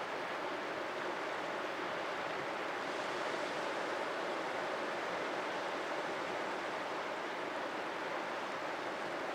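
Sea surf: a steady, even wash of breaking waves, with no single wave standing out.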